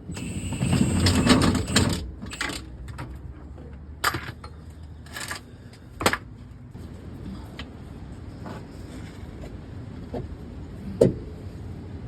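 Hand tools and bolts clinking and knocking against the car's underbody while crossmember bolts are being taken off: a rattling clatter in the first two seconds, then scattered metallic clicks and knocks, the sharpest about eleven seconds in.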